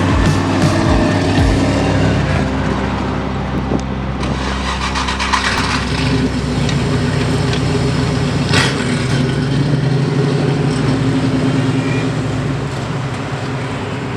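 1968 Ford Mustang V8 engine running with a steady low note that shifts briefly about a second and a half in and again about five seconds in.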